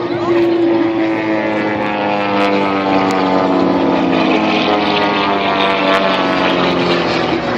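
Yak-52's nine-cylinder radial engine and propeller running steadily during an aerobatic pass, its pitch sinking slowly.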